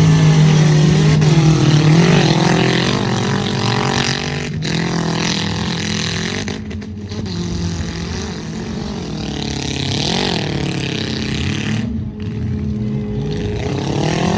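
Engines of demolition-derby trucks running loud, revving up and down several times, the pitch rising and falling about every few seconds.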